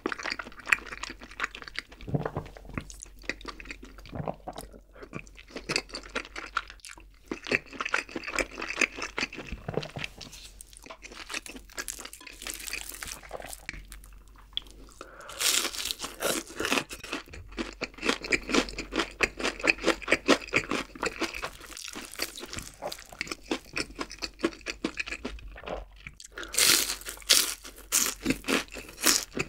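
Close-miked eating sounds: a man chewing, then biting and crunching into a crispy breaded, deep-fried pork cutlet (donkatsu). The crunches come in loud runs about halfway through and again near the end.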